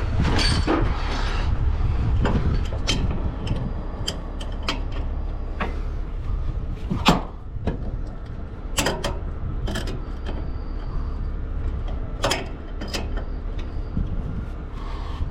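Scattered metal clicks and clanks of hand tools and fittings, the sharpest about seven seconds in, over a steady low engine rumble.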